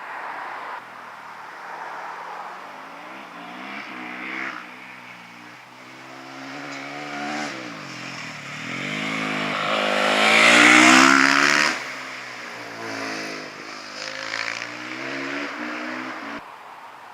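A hillclimb motorcycle's engine revving hard and climbing through the gears in repeated rising steps. It is loudest as it passes close about ten seconds in, then drops away while still changing up.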